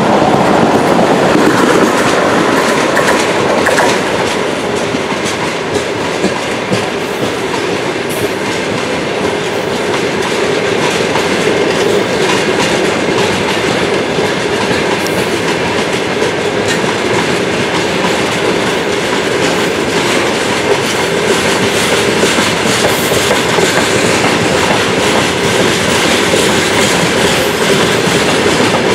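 A moving train, its wheels running on the rails in a steady, loud rush of wheel-and-rail noise that eases a little a few seconds in.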